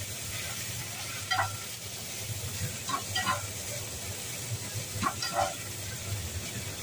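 Minced pork sizzling in a hot textured stainless-steel frying pan as a spatula stirs it, with three short scrapes of the spatula against the pan about two seconds apart. The pork is frying until it browns.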